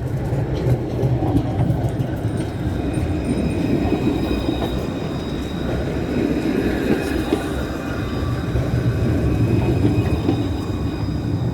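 A tram running past: a steady low rumble, with thin high tones held over it from about two seconds in until near the end.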